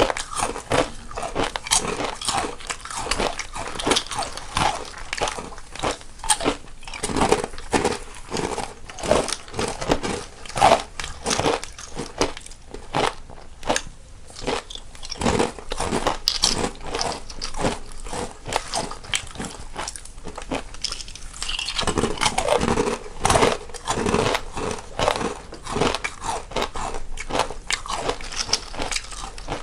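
Two people eating crunchy snacks, a steady run of crisp bites and crunching chews several times a second with no pauses.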